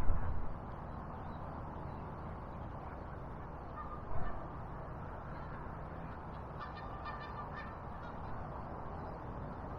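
Geese honking: a short call about four seconds in and a longer run of honks around seven seconds, over a steady rushing background. A dull low thump right at the start is the loudest moment.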